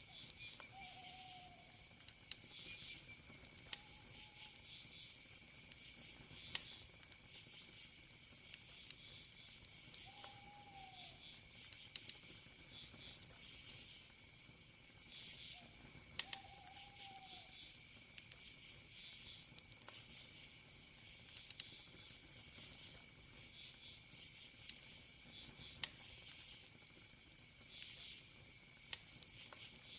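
A campfire crackling faintly with scattered sharp pops, over a steady high trill of crickets. A few short, low calls sound in the background in the first half.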